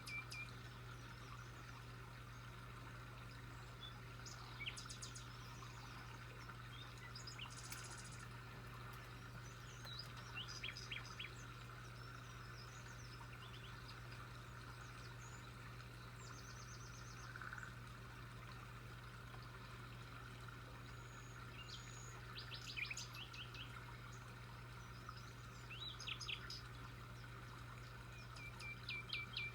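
Birds chirping and calling on and off, with short chirps and quick trills, including a fast run of repeated notes near the end, over a steady low hum.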